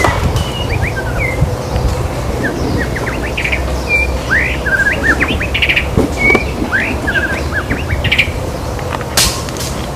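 White-rumped shama (murai batu) singing a fast, varied song of short whistles, slurred notes and quick trills, over a constant low rumble. A sharp click sounds near the end.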